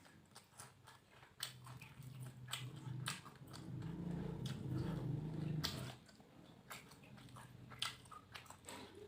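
Close-up eating sounds: biting, chewing and crunching on fried catfish and raw vegetables, a run of short crisp crunches and clicks. A low steady hum swells in the middle for a few seconds and then fades.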